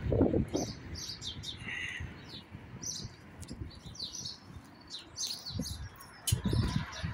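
Small birds chirping repeatedly in short, high calls. Low rumbles break in just at the start and again near the end.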